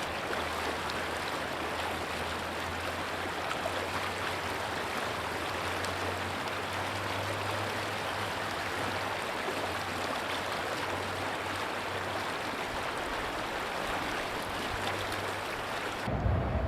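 Steady rushing noise of flowing water, with a low hum beneath it. Near the end it cuts off abruptly and gives way to a louder, low rumble.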